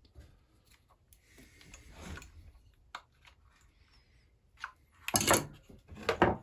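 Small metal clicks and clatter of hand tools working at a chainsaw piston's retaining rings, with a few faint ticks and then two louder clattering knocks near the end.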